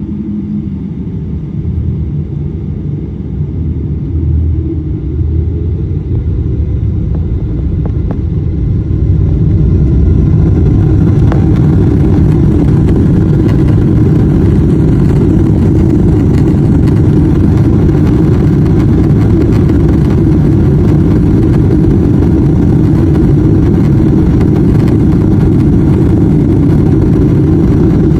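Boeing 777-300ER's GE90-115B turbofan engines at takeoff power: a loud, deep rumble that swells over the first ten seconds or so and then holds steady.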